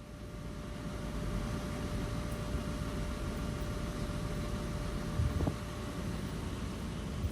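Electric commuter train noise at a station platform: a steady rumble with a faint steady whine, and a couple of low thuds about five seconds in.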